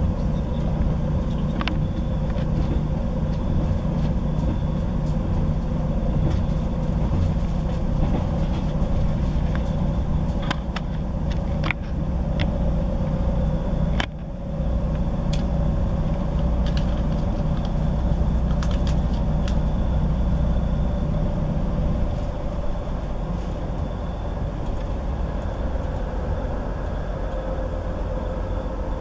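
Interior of a Class 158 diesel multiple unit running at speed: a steady low rumble with a droning tone, and scattered sharp clicks. About halfway there is a brief dip, and about three quarters of the way through the low rumble eases off.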